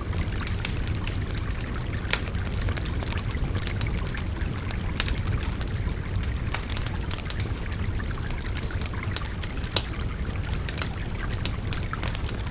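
Wood fire crackling with sharp, irregular snaps and pops, one louder pop about three quarters through, over the steady rush of a babbling stream.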